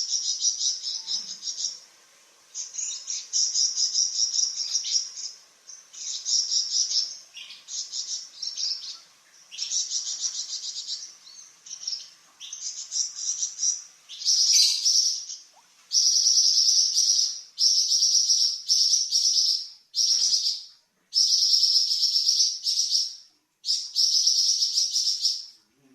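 A flamboyan songbird singing a series of high, rapid trilling phrases of about one to two seconds each, separated by short pauses. The phrases grow longer and steadier in the second half. This is the long 'nyecret' trill that bird keepers use as master song for training cucak ijo and magpie robins.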